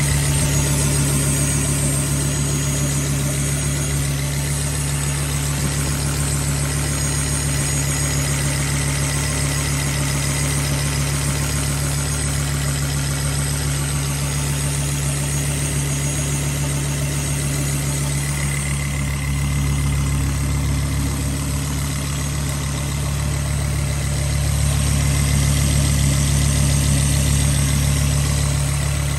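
1999 Volvo V70 2.4T's turbocharged inline-five engine idling steadily, with a faint, very high-pitched whine above it that sounds electrical. The owner has not identified where the whine comes from.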